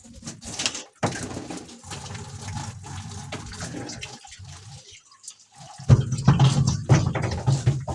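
Water from a hose splashing and running, uneven throughout, with a louder, deeper stretch in the last two seconds.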